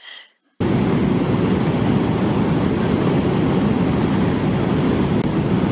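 Loud, steady rushing roar of a waterfall and river, with wind buffeting the microphone, cutting in abruptly about half a second in.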